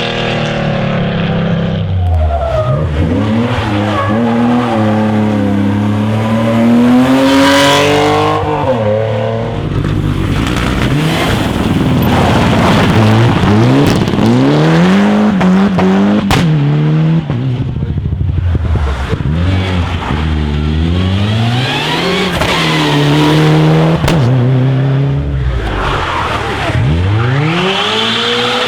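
Rally car engines revving hard and dropping again and again as the cars are driven flat out, shifting gear, lifting off and braking for corners.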